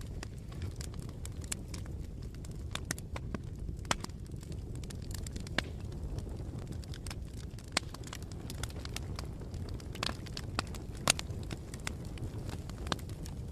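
Campfire burning: a steady low rumble with scattered sharp crackles and pops of burning wood, the loudest pop about eleven seconds in.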